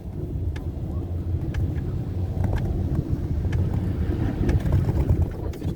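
Steady low rumble of a four-seat chairlift ride, with faint regular ticks about once a second.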